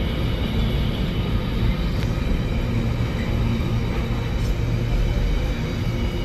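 A train at a railway station, a steady low rumble with a faint engine or motor hum.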